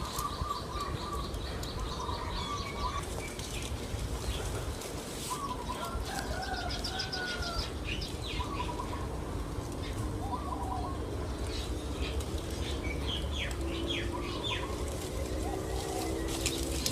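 Backyard birds giving repeated alarm calls: short phrases of chirps and trills, with a lower held note joining in for the last few seconds, over a steady low rumble.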